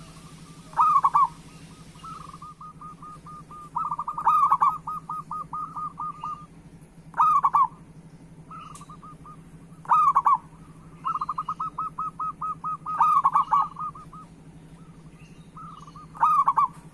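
Zebra doves (perkutut) cooing. About every three seconds comes a loud burst of coos, and between the bursts run quicker, softer strings of staccato notes, about four a second.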